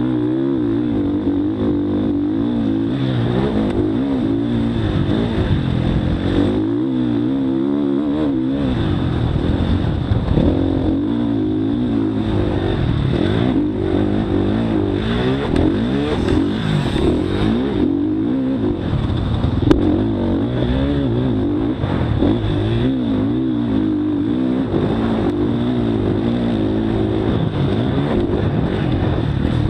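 Motocross dirt bike engine revving on and off the throttle, its pitch rising and falling over and over through the run.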